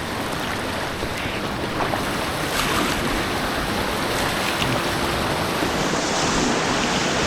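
Steady rush of churning white water on an artificial white water course, close to the microphone, with a few faint splashes.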